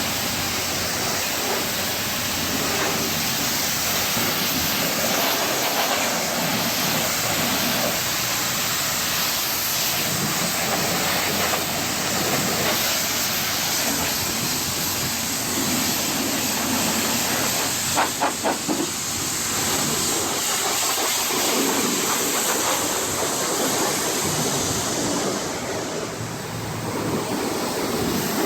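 Pressure-washer wand spraying steadily against a truck's side, a continuous hiss that dips briefly near the end. About two-thirds of the way through, four quick pulses cut through the spray.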